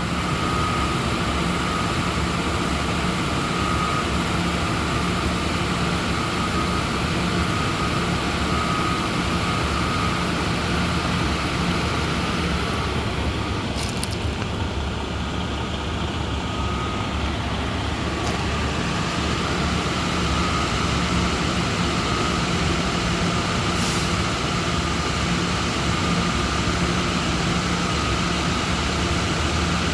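Toyota Land Cruiser's 4.7-litre 2UZ-FE V8 idling steadily, dipping slightly about halfway through, with a few faint ticks.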